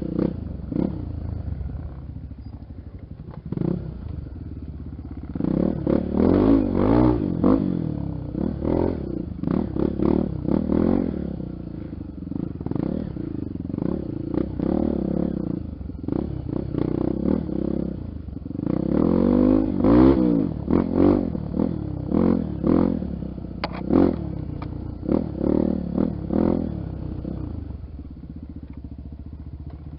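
Honda XR 250 Tornado's single-cylinder four-stroke engine being ridden on a trail, revving up and down again and again as the throttle opens and closes. The strongest surges come about a fifth of the way in and again about two-thirds in.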